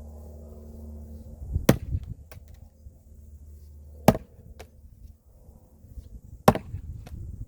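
Firewood being split by hand: three sharp chopping strikes about two and a half seconds apart, over a low steady hum that stops at the second strike.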